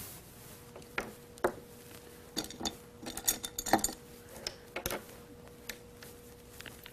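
Light clicks and taps of makeup cases and brushes being handled and set down, a few single clicks and then a quick cluster in the middle.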